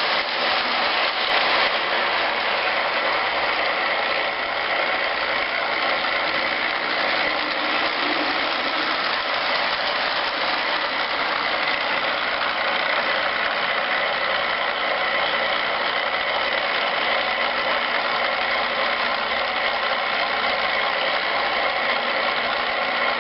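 Steady, unbroken engine running noise that does not rise or fall.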